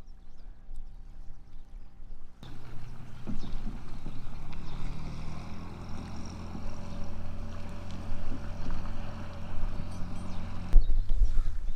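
A steady low engine drone over a hiss, starting abruptly about two seconds in and cutting off near the end. Faint music before it.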